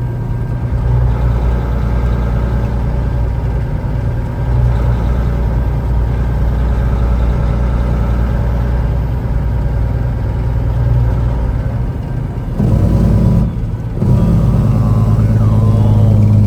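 Peterbilt 379 semi truck's diesel engine and road noise heard inside the cab while driving on the highway, a steady low hum. About 13 seconds in the sound briefly drops away, then comes back as a stronger, steadier engine note.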